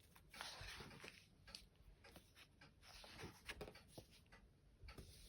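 Faint rustling and soft taps of paper: the pages of an old book being handled and turned.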